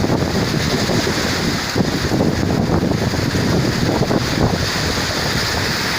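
Strong gale-force wind buffeting the microphone: a loud, continuous rushing rumble that surges and dips in gusts.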